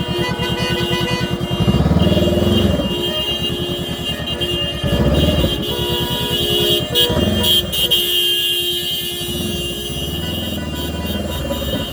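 Motorcycle engines running with a steady low pulse. The revs swell and fall away about four times as bikes accelerate.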